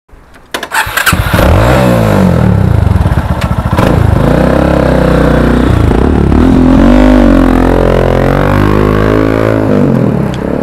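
Single-cylinder motorcycle engine with an aftermarket exhaust, catching about a second in and then revved several times, the pitch rising and falling again and again.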